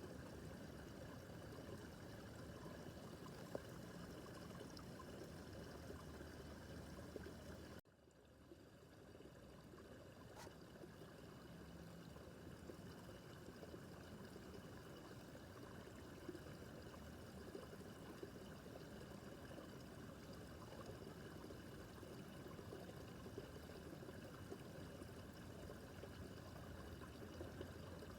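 Babbling brook: a faint, steady rush and trickle of shallow running water. About eight seconds in the sound cuts out abruptly, then swells back up over a few seconds.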